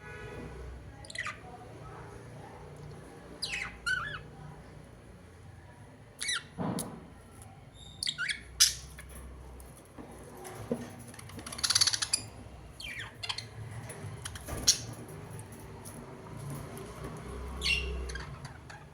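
Birds squawking: short, sharp calls that drop in pitch, coming singly or in quick pairs at irregular intervals.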